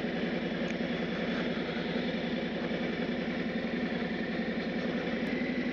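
Harley-Davidson Street Glide's Milwaukee-Eight V-twin running steadily at low speed as the motorcycle rolls along.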